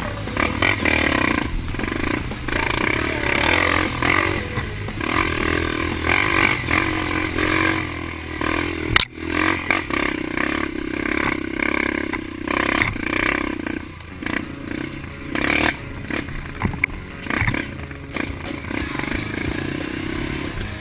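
Off-road vehicle engines running and revving unevenly, with scraping and clattering and a sharp knock about nine seconds in.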